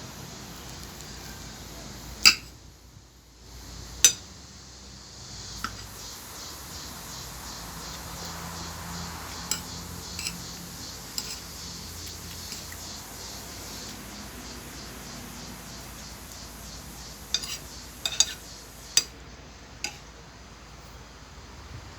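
Cutlery clinking against a plate during a meal: about a dozen sharp, scattered clinks over a steady background hiss, with a cluster of them near the end.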